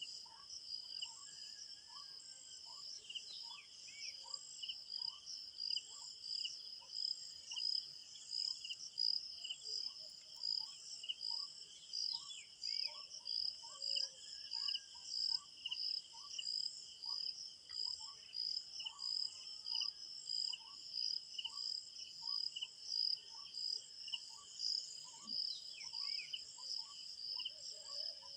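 Chorus of crickets trilling in steady, finely pulsing layers at several high pitches. Beneath it a short, lower call repeats steadily, a little more than once a second, and a few brief falling bird chirps come through.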